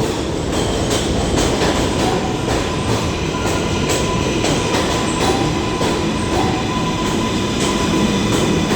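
New York City Subway 7 train moving slowly alongside the platform: a steady rumble from the cars and wheels, with a thin high whine that sets in a few seconds in.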